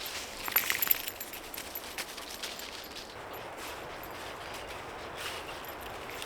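Footsteps on the forest floor, with a quick run of sharp crackles of dry twigs and leaf litter about half a second in, then a steady faint woodland hiss.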